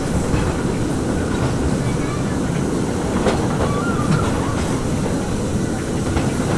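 Passenger car of a narrow-gauge steam train rolling along the track: a steady rumble and rattle of wheels and car body, with a couple of sharp clacks.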